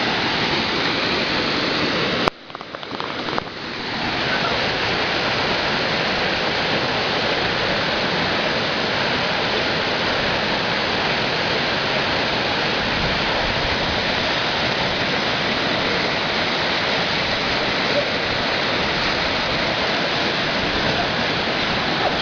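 Waterfall rushing in a steady, loud roar of water. The sound drops out suddenly for a moment about two seconds in and comes back over the next second or two.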